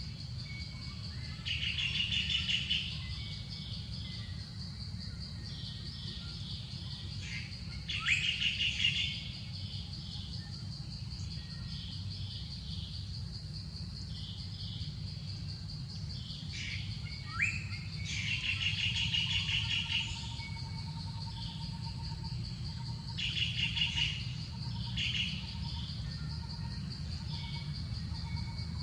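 Birds calling in short, rapid trilled bursts about five times, over a steady high-pitched insect drone and a low background rumble.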